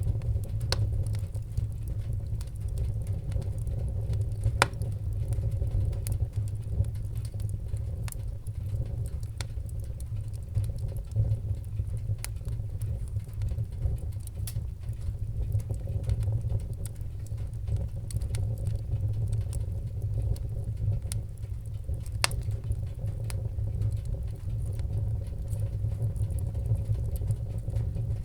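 Wood fire crackling in a fireplace: a steady low rumble of the flames with scattered small crackles and a few sharper pops.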